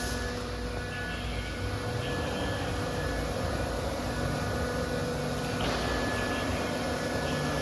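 CNC router machine running: a steady mechanical hum and rush with several thin whining tones that come and go.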